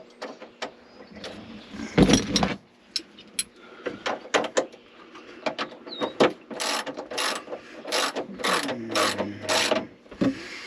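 Ratchet wrench clicking in short strokes as a nut is run down to fasten a fuse onto its bolt, with scattered clicks of metal tools and a single knock about two seconds in. The ratcheting is steady and rhythmic in the second half.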